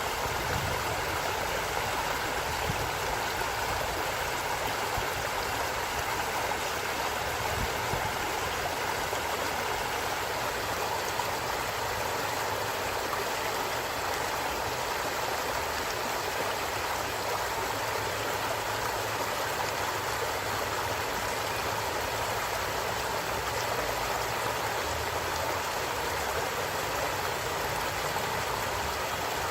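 A stream flowing steadily, its running water making an even rushing sound.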